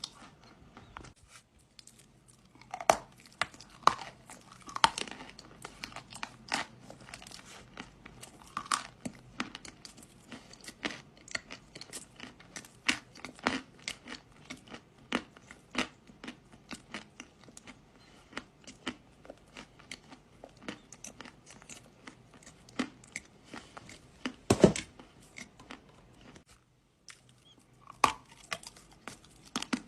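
Close-miked crunching and crumbling of dry kaolin clay being bitten and chewed: a run of irregular crisp cracks, with a short pause about a second in and another near the end.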